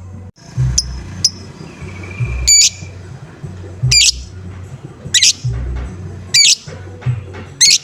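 Lovebird giving its harsh, repeated 'ngoek-ngoek' calls, seven short calls spaced about a second apart, over a background music beat.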